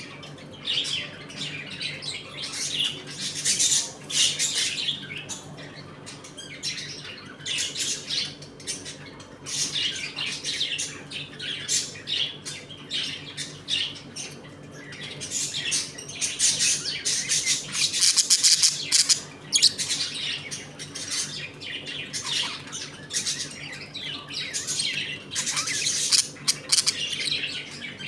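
A flock of budgerigars chattering, with overlapping chirps, warbles and squawks, busiest in several spells.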